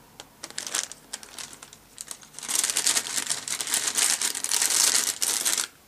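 Plastic craft-supply packet crinkling as it is handled: a few scattered crackles at first, then a dense, loud crinkling for about three seconds that stops abruptly.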